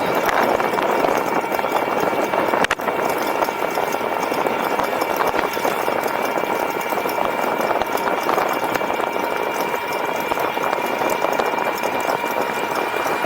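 Steady riding noise from an e-bike under way: wind on the camera microphone and tyre hum, with a faint steady whine under it and a single short click a few seconds in.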